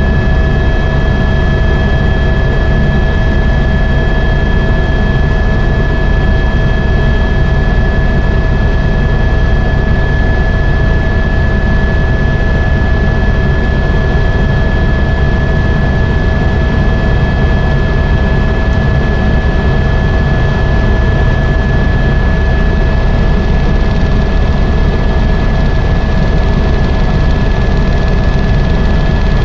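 Helicopter in flight: a loud, steady rotor and engine drone with a constant high whine running over it.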